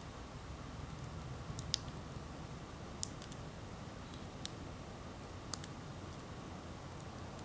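Wood campfire crackling: scattered sharp pops and snaps, a few seconds apart, over a steady low rush of burning.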